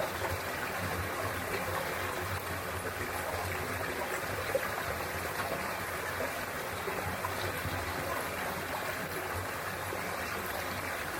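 Mountain stream flowing over rocks in a valley: a steady, even rush of water.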